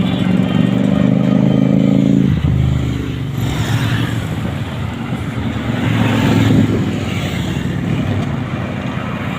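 Motorcycle engine accelerating, its pitch climbing for about two seconds and then dropping away abruptly. Engine and road noise from passing traffic follows.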